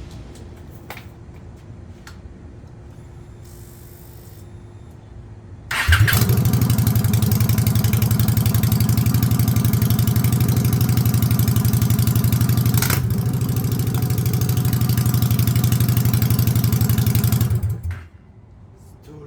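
Honda Shadow Aero VT750C's V-twin with an aftermarket TJ Brutal exhaust starting up about six seconds in and running loud with a lumpy, pulsing exhaust beat, then shutting off near the end.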